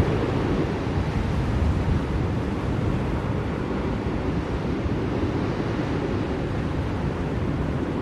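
Steady blizzard wind, a deep even rushing with slight swells in loudness.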